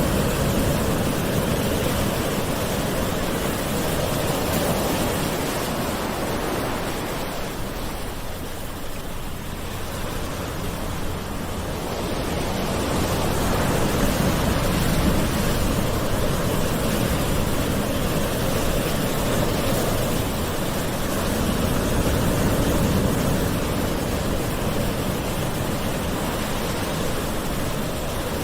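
Gentle ocean waves washing onto a shore, a steady rush of surf that swells and ebbs slowly, easing off for a few seconds about a third of the way in before building again.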